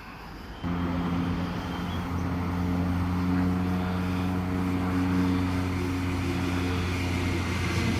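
A train approaching, a steady low hum of several held tones that starts abruptly less than a second in and slowly grows louder.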